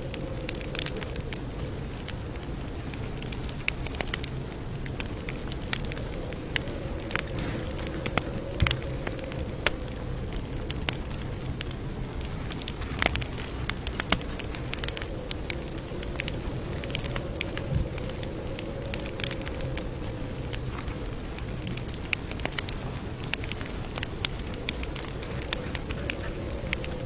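Campfire crackling, with irregular sharp pops and snaps of burning wood over a steady low rumble and a faint, slowly wavering hum.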